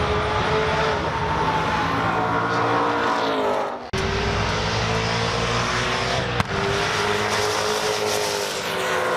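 Race car engines running hard at high revs, their pitch sagging and rising. The sound breaks off abruptly about 4 seconds in and again about 6.5 seconds in.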